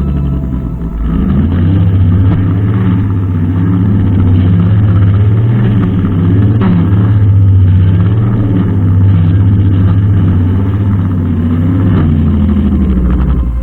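Brushcutter engine running steadily under load, its pitch wavering slightly.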